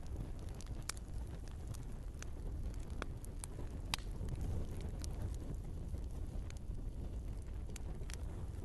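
Wood fire burning in a fireplace: a steady low rumble of the flames with irregular crackles and pops of the logs, a sharper pop about four seconds in.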